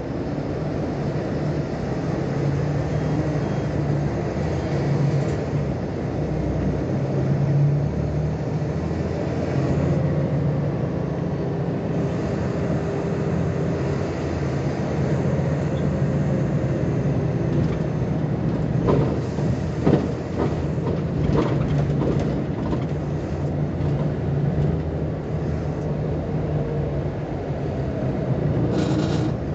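Volkswagen Volksbus 18-280 OT LE city bus's diesel engine running as the bus drives, a steady low drone whose pitch shifts a little with speed. A few short knocks or rattles come about two-thirds of the way through.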